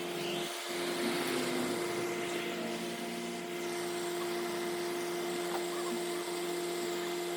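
An engine running steadily: a constant hum under a hiss.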